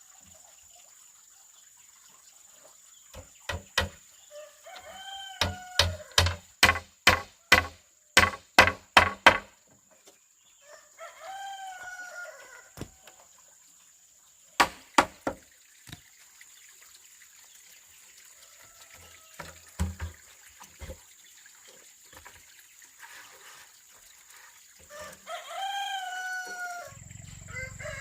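A rooster crowing three times among sharp knocks. In the middle is a quick run of about eight blows, roughly two a second, and there are scattered single knocks before and after.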